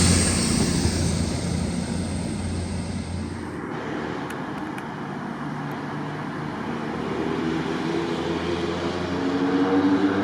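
A train passing through the station: rumble and rail noise, loud at first and fading over the first few seconds, then an engine hum that grows louder toward the end.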